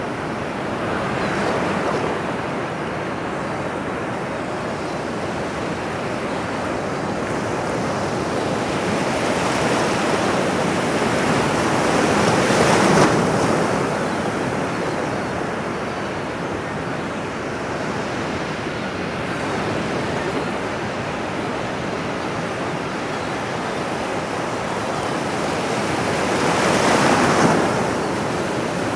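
Ocean surf: a steady wash of waves, with larger waves breaking about halfway through and again near the end.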